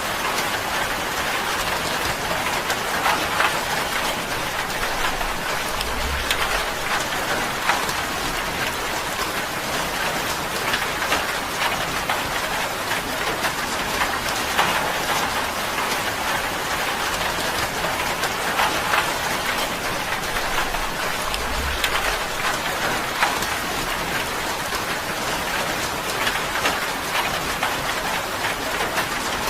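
Steady rain drumming on a tin roof: a dense, even patter of drops striking metal sheeting.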